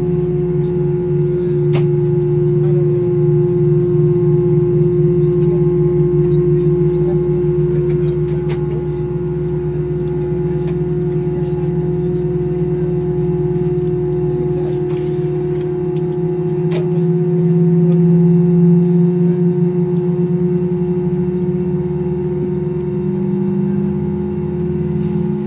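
Airbus A321 cabin drone with the jet engines at idle: a steady hum over a lower hum with a fast pulsing beat. The lower hum swells about two-thirds of the way through and rises in pitch near the end.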